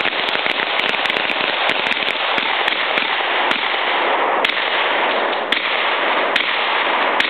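Rapid gunfire from several shotguns and pistols fired at once, the shots overlapping in a loud, distorted volley for the first few seconds, then thinning to single shots about a second apart.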